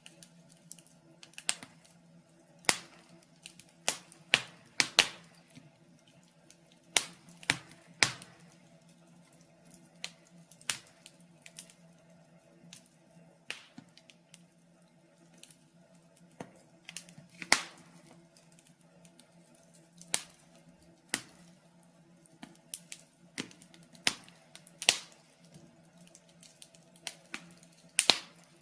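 Wood fire crackling in a fireplace: irregular sharp pops and snaps, several every few seconds, over a faint steady hum.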